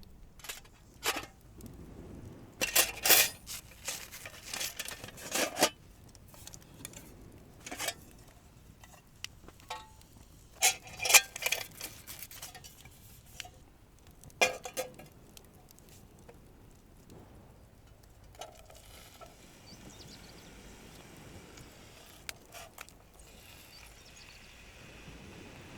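Cutlery and cookware clinking and scraping during a meal, in scattered short clatters over the first fifteen seconds or so, then only faint background.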